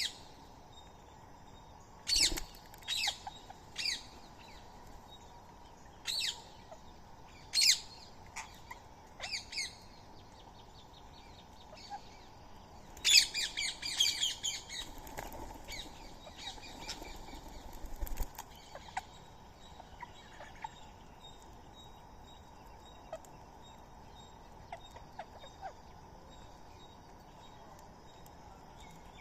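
Birds giving short, harsh calls, one every second or two over the first ten seconds, then a louder burst of several calls about 13 seconds in, after which only faint ticks remain.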